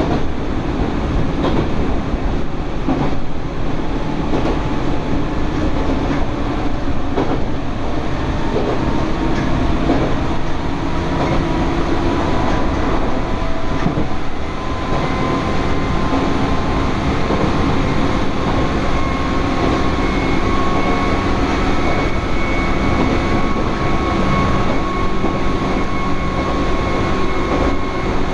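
Electric commuter train running between stations, heard from inside the car: steady rolling and rail noise with occasional wheel clicks over rail joints, and a thin motor whine that rises slowly in pitch through the second half.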